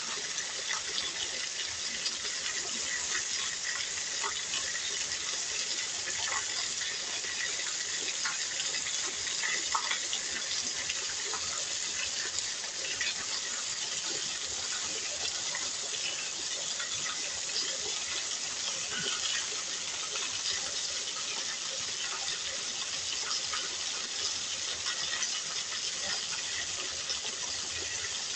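Heavy rain with runoff pouring off a roof edge: a steady hiss dotted with small splashes and drips.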